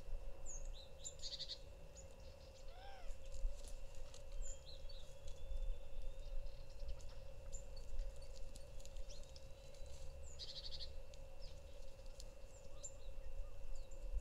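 Small birds chirping and twittering now and then, with one short rising-and-falling call about three seconds in, over a steady low rumble and a faint constant hum.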